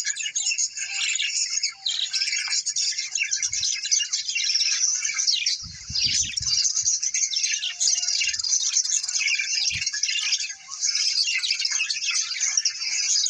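Many small birds chirping and twittering at once in a dense, continuous chatter, with a few brief low thumps.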